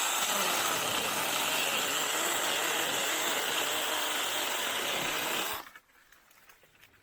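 Battery-powered 6-inch mini chainsaw running and cutting through a Chinese tallow stem, a steady sound that stops about five and a half seconds in.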